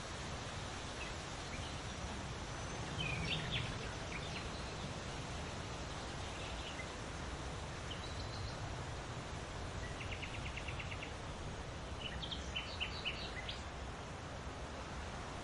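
Small birds chirping now and then over a steady background hiss, with a short fast trill of repeated notes about ten seconds in and a cluster of chirps near the end.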